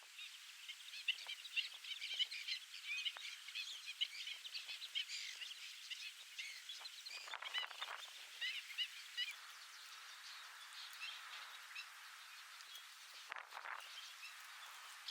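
Large flock of birds calling, a dense chatter of many overlapping short, high chirps that thins out in the second half.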